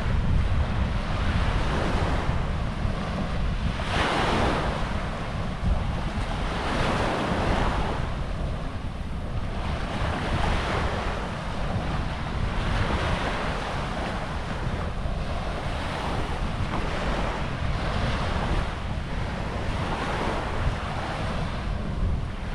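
Small sea waves washing onto a sandy beach, a hissing swell rising and falling every few seconds, with wind buffeting the microphone as a steady low rumble.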